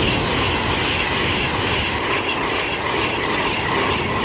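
Class 390 Pendolino electric train passing through, a loud steady rush of wheel, motor and air noise.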